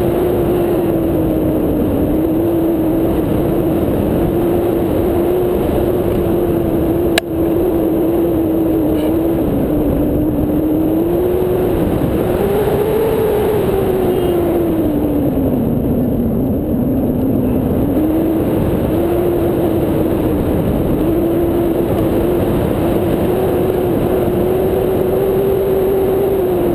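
Wind rushing past a paraglider in flight, a loud steady rush with a humming tone that slowly rises and falls. A single sharp click about seven seconds in.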